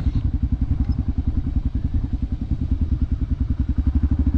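Motorcycle engine running steadily, a fast, even pulsing beat at a constant speed.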